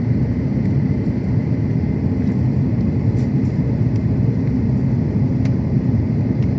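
Steady low roar of an Airbus A330-900's cabin in flight: engine and airflow noise heard from a passenger seat, even and unbroken.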